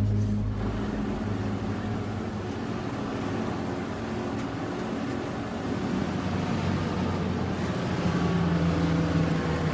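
Motorboat engine running steadily, with a low hum and a rushing noise.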